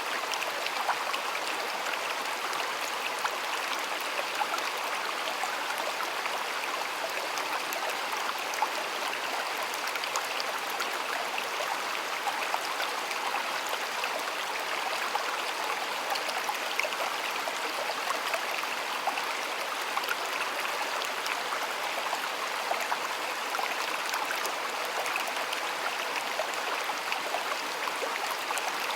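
A shallow stream flowing steadily, water rushing and splashing over stones with a constant bright babble.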